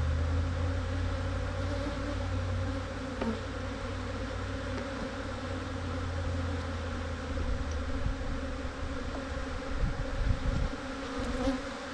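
A dense, steady buzz of many honeybees flying around an opened hive: a large, highly defensive colony disturbed by a hive breakdown. Scattered low bumps come near the end.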